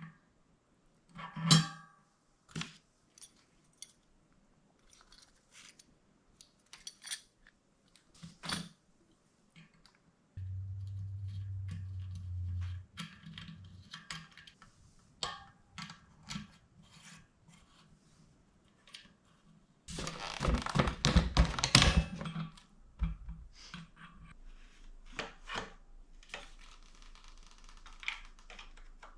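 Scattered clicks and knocks of tools and bicycle parts being handled during assembly, with a short low hum about ten seconds in and a loud burst of rattling around twenty seconds in.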